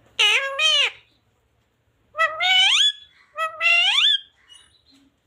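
Pet parrot calling: two short calls, then two longer calls that rise in pitch.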